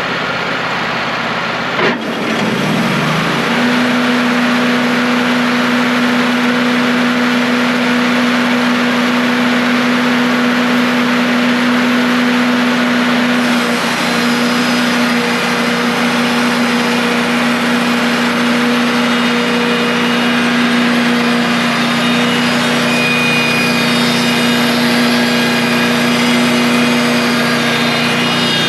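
Wood-Mizer portable band sawmill's engine revved up about two seconds in, then running steadily at high speed as the band blade cuts through a tamarack log.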